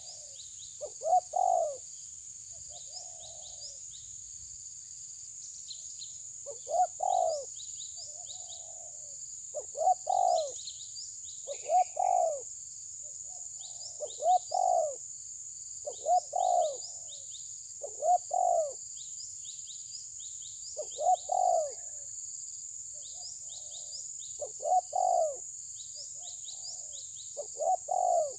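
Bird calls: a low, short call repeats about every two seconds, with softer calls between, over frequent high chirps from small birds and a steady high-pitched hiss.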